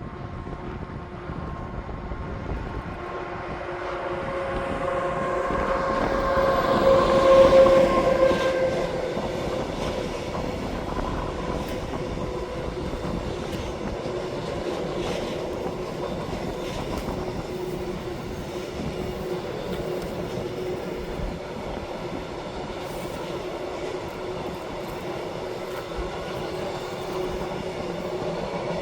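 Train approaching and passing, loudest about seven to eight seconds in, with a steady whine of several tones. The cars then keep rolling past with steady running noise and faint wheel clicks.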